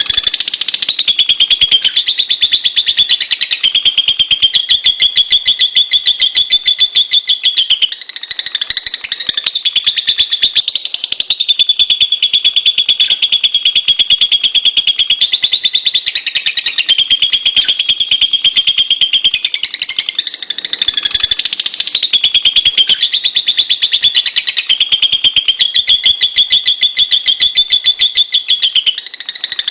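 Lovebird chattering in a long, rapid, high-pitched stream of chirps, with only brief breaks.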